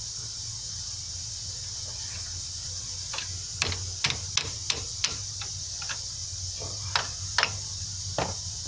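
Irregular sharp clicks and taps, about ten in all and bunched in the second half, as the brake caliper's retaining clips and hardware are worked into place on a Dodge Durango front brake.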